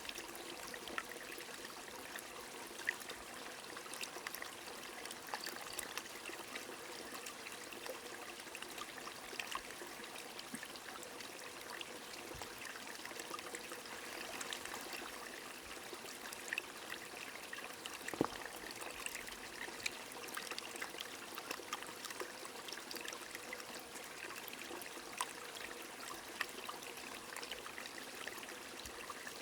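Small stream trickling steadily, with scattered light ticks of raindrops.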